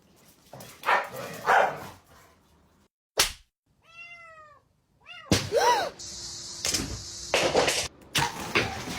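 A cat meowing, short arching calls heard twice, among knocks and thumps.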